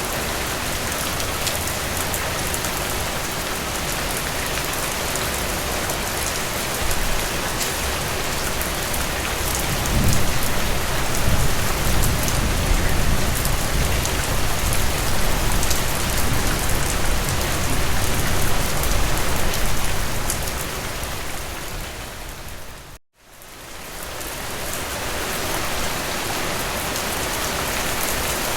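Heavy rain pouring steadily onto a surface with a dense patter of drops. A deeper low rumble swells in about ten seconds in. About 23 seconds in the sound fades out to silence for a moment and fades back up.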